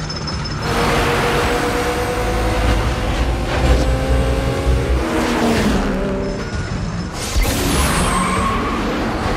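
Car engines revving up and down with screeching tyres, in surges about a second in and again later on.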